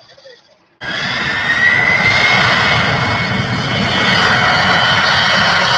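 Jet airliner's turbofan engines at takeoff power on the takeoff roll: loud, steady engine noise with a whine that rises slightly in pitch, cutting in suddenly about a second in.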